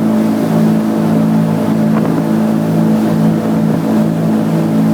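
Motorboat engine running steadily at a constant speed, a loud, even drone that does not change in pitch.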